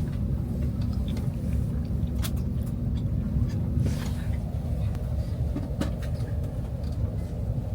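Steady low vehicle rumble with a constant hum, and a few faint clicks and knocks scattered through it.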